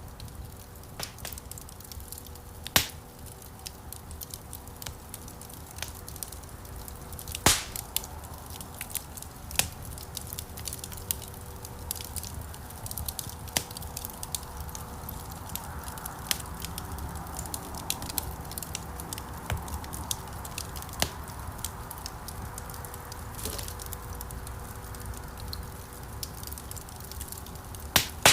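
Wood fire burning in a stone fireplace: a steady soft crackle with scattered sharp pops, the loudest about 3 seconds in, about 7 seconds in and near the end. A soft hiss rises and fades around the middle, over a faint steady hum.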